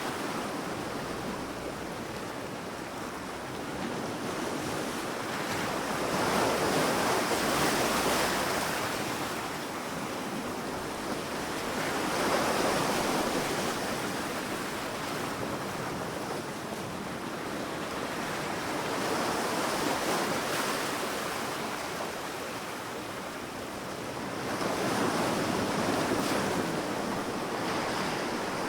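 Ocean waves breaking on a sandy beach, the surf swelling and falling back every five or six seconds, with some wind on the microphone.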